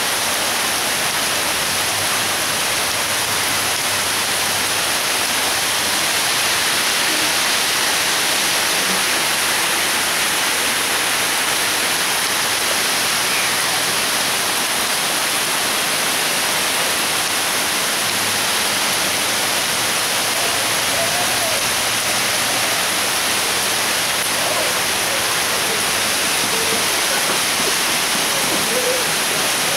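Heavy tropical downpour: rain pouring down in a steady, even hiss.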